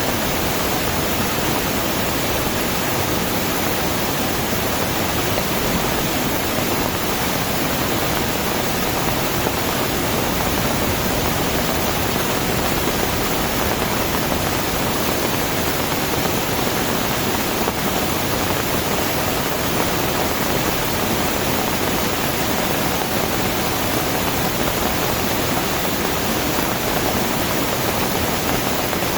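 Heavy rain falling steadily, a dense unbroken hiss with no breaks or thunder claps.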